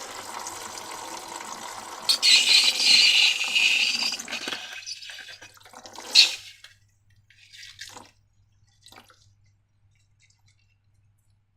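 Water running and pouring, its hiss louder from about two seconds in and tapering off about five seconds in. A sharp click follows near six seconds, then a few faint handling sounds.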